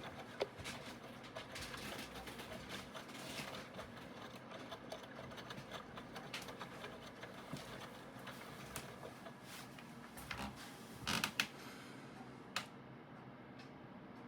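Aidoo 1 kg mini washing machine running: a continuous clatter of small irregular clicks and knocks over a soft rushing noise, with a louder cluster of knocks about ten to eleven seconds in and another single knock a little later.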